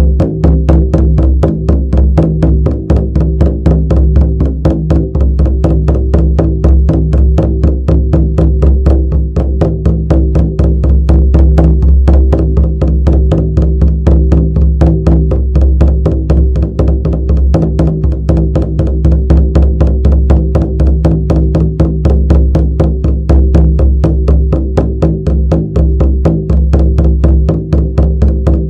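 Shamanic drum beaten in a fast, steady, unbroken rhythm of about four to five strokes a second, with a deep booming ring that carries between strokes.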